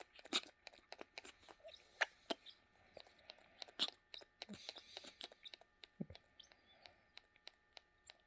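Cockatoo eating peanut butter up close: irregular soft clicks and smacks from its beak and tongue, a few a second, with no rhythm.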